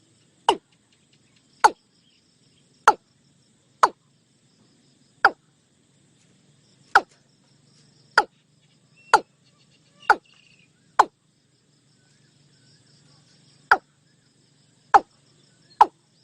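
Watercock calling: a series of short, sharp notes, each a quick downward sweep in pitch, repeated about once a second, with a longer pause past the middle and quickening again near the end. A faint high insect buzz and a low hum lie underneath.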